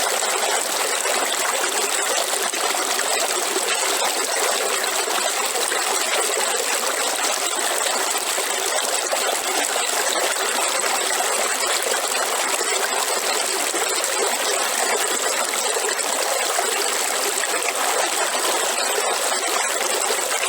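River water flowing and splashing steadily, a constant bright rushing sound with no deep rumble.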